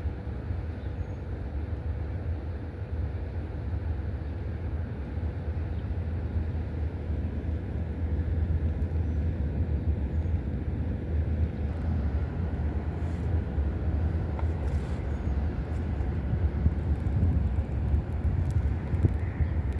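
Steady low outdoor rumble, with a faint steady hum above it.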